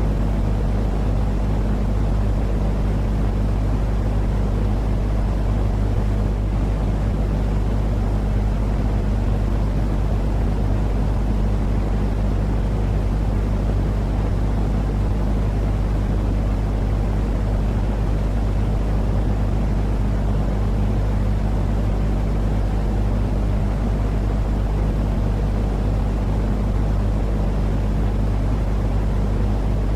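Steady, unchanging low rumbling noise with a hum underneath, a continuous sleep-noise track for calming colicky babies.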